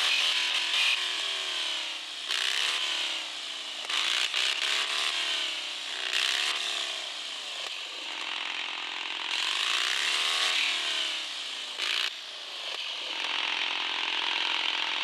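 Electric motor and geared drivetrain of a radio-controlled 4x4 crawler whining, the pitch rising and falling in repeated throttle surges every couple of seconds, with a gritty rasping noise over it.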